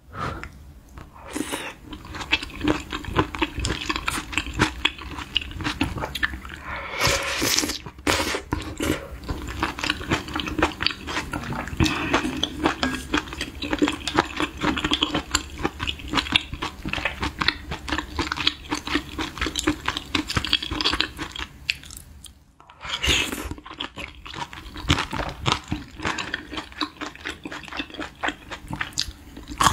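Close-miked chewing of spicy beef-intestine hot pot (gopchang jeongol) with glass noodles: steady wet, clicking mouth sounds, with louder noisy bursts about seven seconds in and again just after twenty-three seconds.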